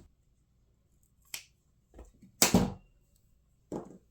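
Double-sided tape and small plastic parts being handled: four short, sharp crackles and clicks, the loudest about halfway through.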